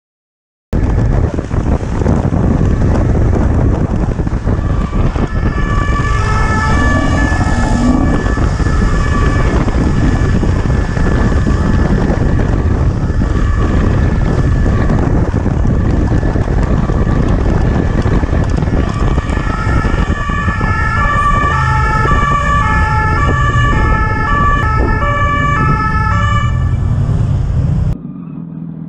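A police siren switching back and forth between two tones, heard over loud rushing wind and road noise. The siren comes through at times and is clearest in the last several seconds before everything cuts off abruptly.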